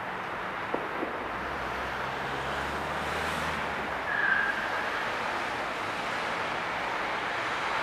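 Train approaching in the distance over a steady rumble and hiss of outdoor noise, with a low hum for a couple of seconds and two faint clicks near the start. About four seconds in, a short high tone sounds and is the loudest thing heard.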